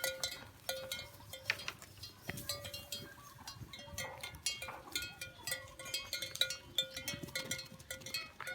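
Bells worn by grazing cattle clanking irregularly: many short metallic clinks that ring on briefly.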